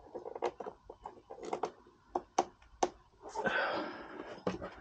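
Scattered light clicks and knocks of parts and tools being handled while working on a mower's oil drain and filter, with a short rough scraping sound about three and a half seconds in.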